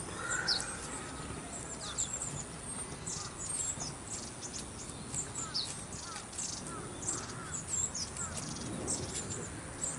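Small birds chirping, many short high calls one after another, over a steady outdoor background hiss.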